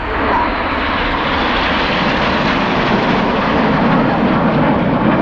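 Jet engine roar of the Red Arrows' BAE Hawk jets flying past during their display: a steady, loud rush that builds slightly toward the end.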